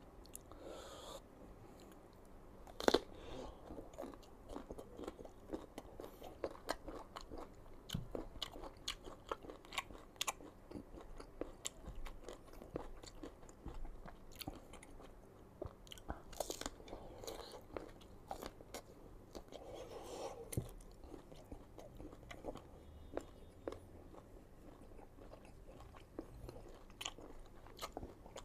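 Close-up eating sounds: crisp, unripe green mango being bitten and chewed, a dense run of crunches with a sharp, loud crunch about three seconds in.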